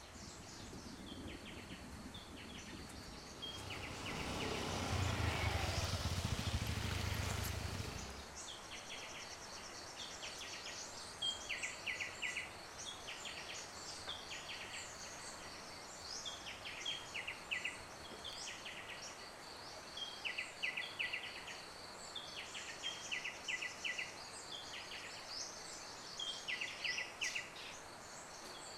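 Field ambience: a bird repeats short phrases of quick falling notes every couple of seconds over a steady high insect drone. Between about four and eight seconds in, a louder rushing noise swells and fades.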